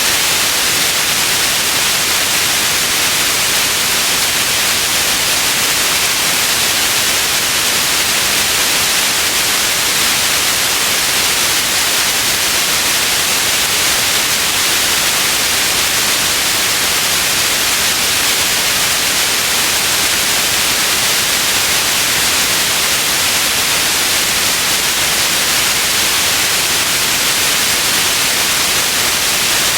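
Steady white noise: an even, unchanging hiss, brightest in the treble, with no events or variation.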